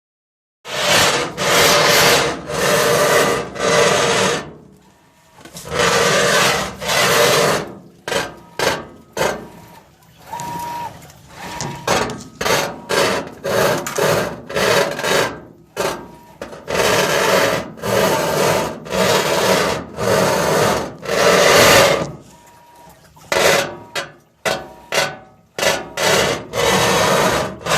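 GE washing machine's tub scraping loudly against something underneath, in repeated rasping strokes about a second long, some shorter and quicker. The scrape began after the machine was moved, and the owner wonders whether it is the bearings or something he disturbed.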